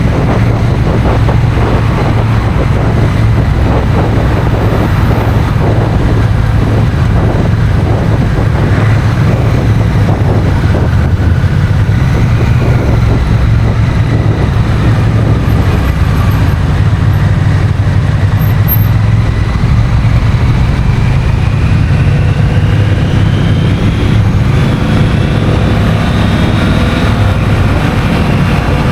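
Honda CMX1100 Rebel's 1084 cc parallel-twin engine running under way, with wind noise on the microphone. Over the last several seconds its pitch rises steadily as the bike accelerates.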